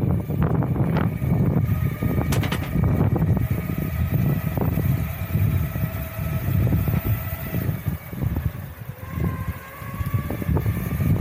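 Wowgo AT2+ electric longboard being ridden: a steady low rumble from the wheels rolling over rough ground, with a faint steady whine from the belt-drive motors.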